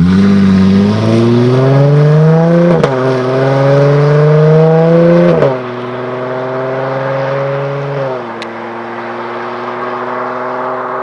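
V6 Dodge Charger/Magnum/Chrysler 300 running through a Solo Performance Mach-SXT stainless dual exhaust, accelerating hard. The exhaust note rises in pitch and drops with upshifts about three and five and a half seconds in. It then goes quieter and steady at light throttle, with one more downward step in pitch near the end.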